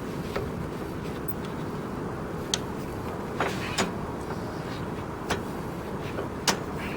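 Homemade tractor's engine running steadily with a low rumble, with several sharp, irregular clanks over it.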